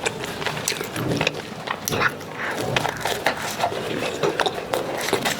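Close-miked chewing and lip-smacking as someone eats, with a dense run of short clicks and smacks.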